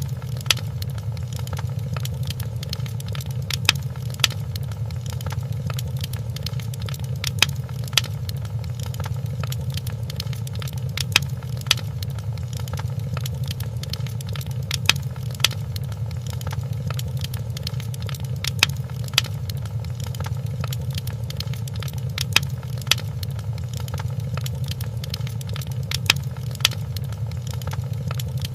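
Wood fire crackling in a fireplace: many small crackles over a steady low rumble, with louder sharp pops coming in pairs about every four seconds.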